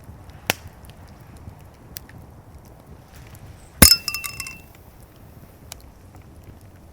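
A single sharp clink of hard objects knocking together, ringing briefly with a short rattle after it, about four seconds in; a fainter click comes near the start.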